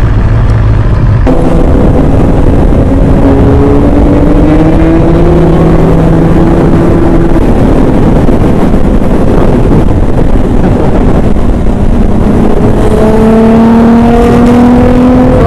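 Sport-bike engine accelerating, its pitch rising as it pulls up through the revs twice, over heavy wind rush on the microphone while riding.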